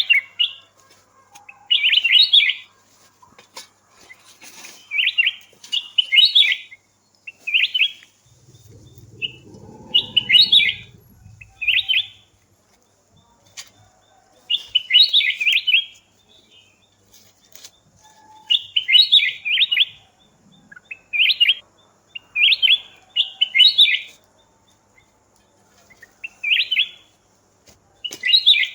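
A songbird singing short phrases of quick, high chirps, repeated every second or two. A low rumble comes in about a third of the way through and fades after a few seconds.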